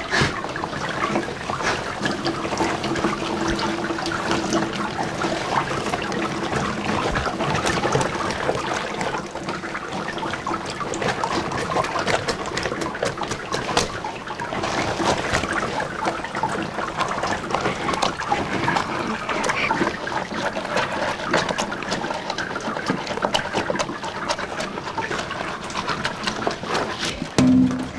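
Liquid trickling and pouring with many small clicks and splashes: soybean curds and whey being ladled out of the cauldron.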